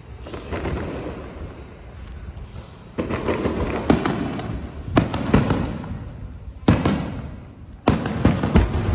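Fireworks going off: a crackling rumble at first, then from about three seconds in a run of sharp bangs, each trailing off in rumble and crackle.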